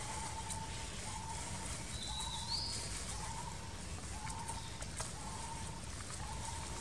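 A bird calling over and over, one steady note about once a second, each note lasting most of a second, with a short higher rising whistle about two seconds in. A low rumble runs underneath.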